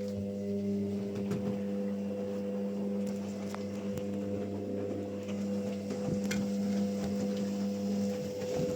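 Washing machine running with a steady electric hum, like that of its drain pump or motor.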